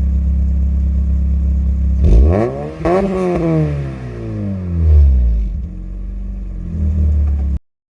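Car engine breathing through a newly fitted custom stainless steel exhaust, cruising steadily at motorway speed. About two seconds in the engine note rises sharply as it revs up, then falls back over the next couple of seconds and settles to a steady drone before cutting off suddenly near the end.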